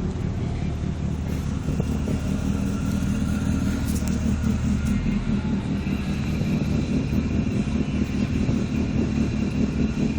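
Nissan 350Z's 3.5-litre V6 engine running at a steady speed, with a slight change in its note about halfway through.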